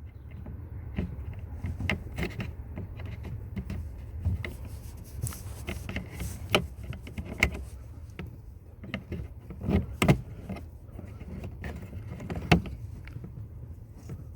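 Plastic push-in trim rivet being worked out of the glove box area by hand and tool: irregular small clicks and knocks of plastic, with a few sharper snaps.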